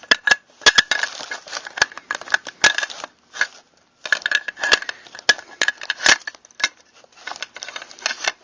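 Metal parts of a Mossberg pump-action shotgun being handled and fitted back together: a rapid, irregular run of clicks, scrapes and metallic clatter, with a brief pause a little past three seconds in.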